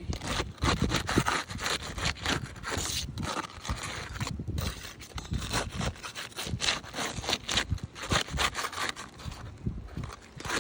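A metal pry tool scraping and prying under asphalt roof shingles in quick, irregular strokes, breaking the shingles' sealant strip so a damaged shingle can be lifted out.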